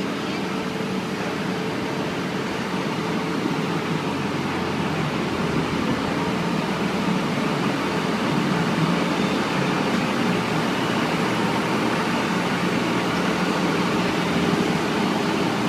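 Motorcycle engine running steadily at low riding speed, under an even rushing noise.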